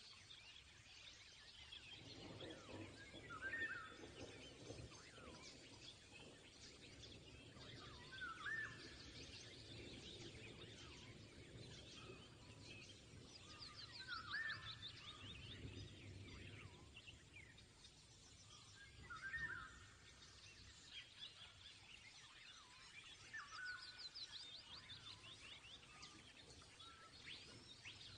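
Faint bird calls: short chirps repeating every few seconds, with rapid high trills twice, over faint background noise.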